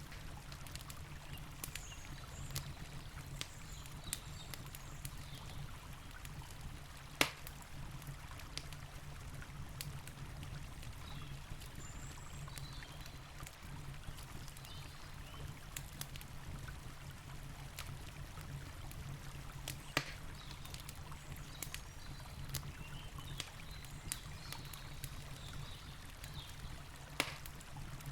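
Campfire crackling with scattered sharp pops, three louder ones spread through, over the steady rush of a river.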